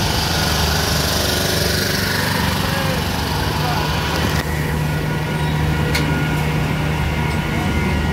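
Electric multiple-unit local train passing close by: steady running noise of its wheels on the rails over a low, even hum, with one sharp click about six seconds in.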